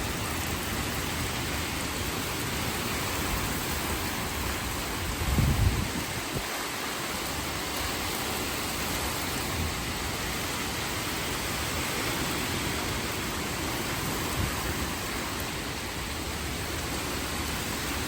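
Heavy rain pouring steadily in a thunderstorm, with one brief low thump about five seconds in.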